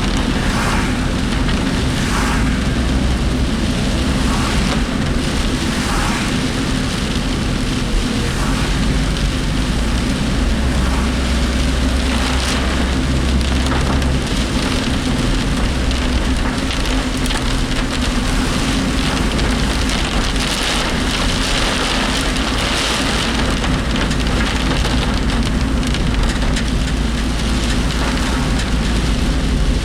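Heavy typhoon rain hitting a moving work vehicle, heard from inside the cabin, over a steady low engine and road rumble and the rattle of the vehicle's body.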